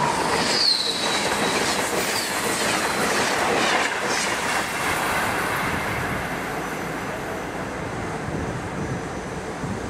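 SEPTA electric commuter train passing close by, with steady wheel and rail noise and clickety-clack. A short falling wheel squeal comes about half a second in, with fainter squeals after, and the noise slowly fades as the train moves away.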